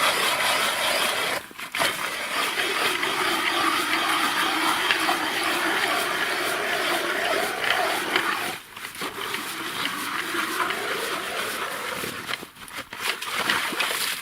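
Ice auger boring a fishing hole through river ice: a steady grinding, scraping churn of the blades cutting ice. It breaks off briefly about a second and a half in, again a little past the middle, and near the end.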